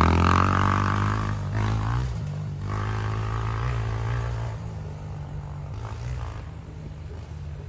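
Honda CRF125F dirt bike's single-cylinder four-stroke engine riding away after passing close, revving up through the gears as its note fades into the distance.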